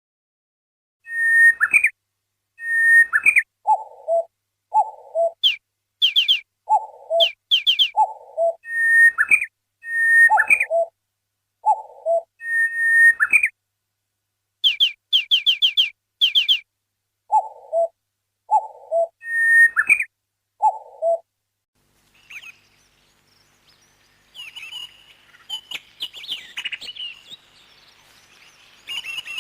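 Whistled bird calls repeated over and over with silence between them: short higher notes that flick upward at the end, alternating with lower notes. About 22 seconds in, this gives way to busier chirping over a background hiss.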